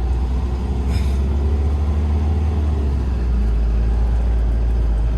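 Diesel engine of the Asa Seaside Railway DMV (road-rail minibus) running with a steady low rumble.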